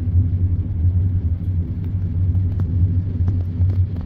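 Passenger train rolling along, heard from inside the carriage: a steady low rumble, with a few light clicks in the second half.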